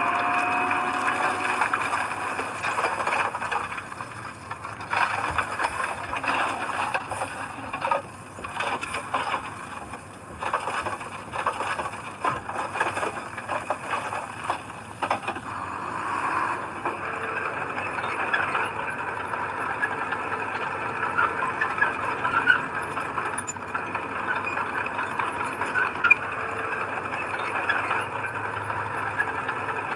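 Heavy earthmoving machinery at work: an engine running under load with metallic squealing and irregular clanking and rattling, busiest in the first half and steadier later.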